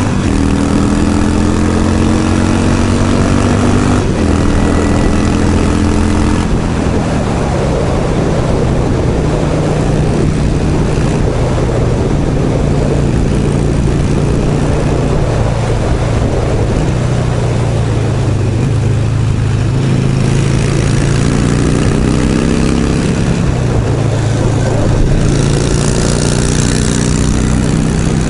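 Harley-Davidson Sportster 1200's air-cooled V-twin engine riding under way, with heavy wind noise on the helmet microphone. The engine pitch climbs under acceleration in the first few seconds, with a shift about four seconds in, then holds steady at a cruise. It climbs again through the gears from about twenty seconds in.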